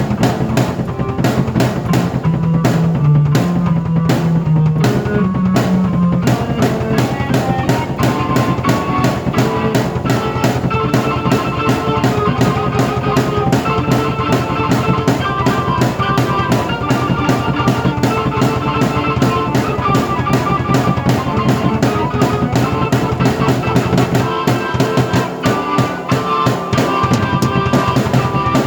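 A drum kit and a keyboard played together in a busy, steady beat. Low bass notes carry the first few seconds, then a higher keyboard melody takes over, and the low end drops out for a couple of seconds near the end.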